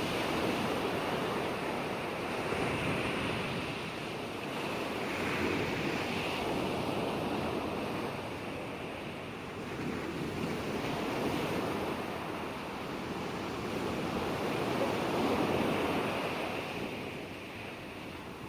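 Ocean waves breaking and washing on the shore, a steady rush of surf that swells and falls back every few seconds.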